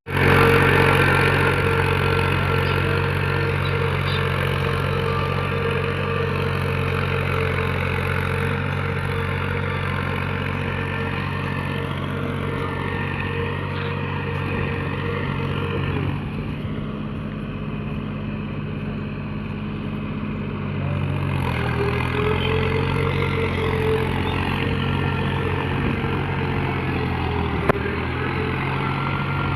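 Mahindra tractor's diesel engine running steadily under work in a wet, muddy field, its note dropping a little about halfway through and picking up again a few seconds later.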